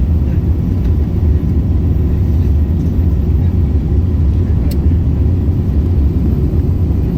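Airbus A380 cabin noise in flight: a steady low rumble of engines and airflow heard from inside the cabin.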